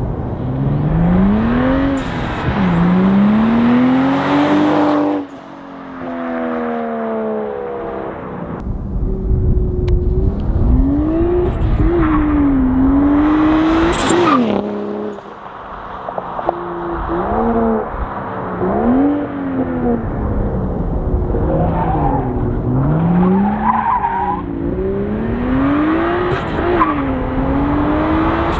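Toyota GR Supra (A90) with an MBRP cat-back exhaust, accelerating hard several times. The engine note climbs, drops back at each gear change, and climbs again. It goes quieter as the driver lifts off about five seconds in and again about fifteen seconds in.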